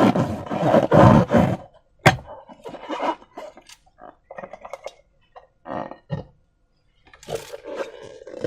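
Slime being squeezed and worked by hand: wet squelching and crackling, with one sharp snap about two seconds in and scattered smaller squishes after it.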